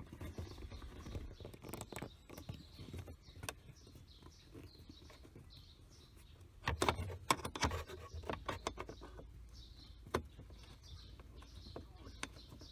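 Scattered metallic clicks and knocks of hand tools working loose the nuts on a pickup's air-conditioning parts, with a denser run of them about seven seconds in. Faint bird chirps sound in the background.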